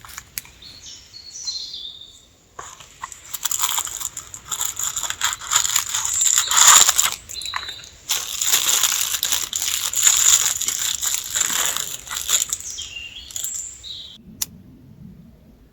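Loud crinkling, crunching handling noise, heaviest through the middle, that stops abruptly near the end.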